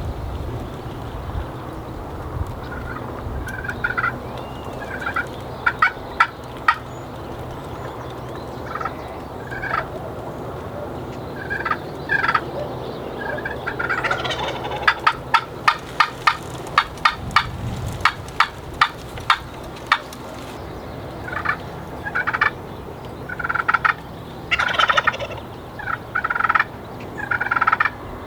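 Wild turkey gobbler calling repeatedly. Scattered calls come first, then a quick run of sharp notes in the middle, then a string of longer rough gobbles near the end.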